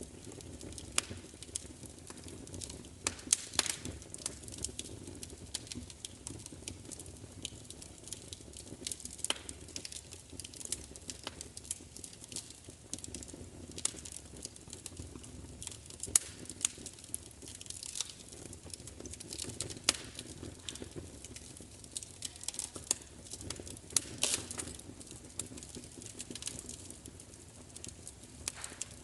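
Wood fire crackling: irregular sharp pops and snaps, some louder than others, over a steady low rumble of burning.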